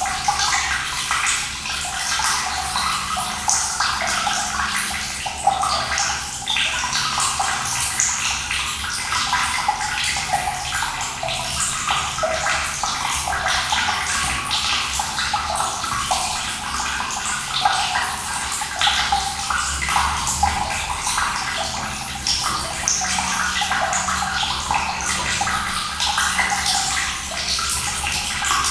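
Running water flowing and splashing steadily, a dense hiss with many small splashes.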